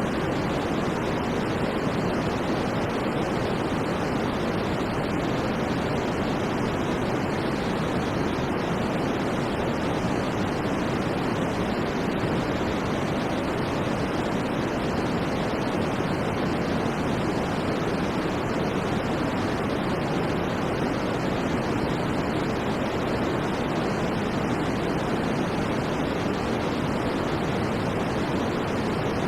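Steady white noise for sleep: an even, unchanging rushing hiss, fuller and darker in the lower range than at the top.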